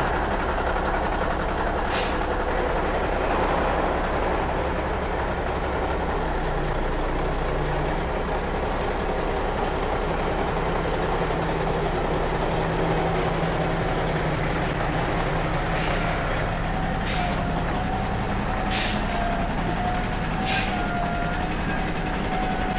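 Truck engine running steadily while driving, with a few short sharp knocks or hisses, most of them in the second half. A thin wavering whine joins in during the last several seconds.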